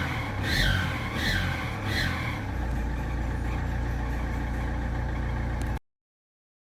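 Opel Astra 1.9 CDTI four-cylinder turbodiesel revved several times in quick succession, each rev bringing a whistle from the turbo that rises and falls, then settling to a steady idle. The whistle is the sound of a damaged turbocharger. The sound cuts off suddenly near the end.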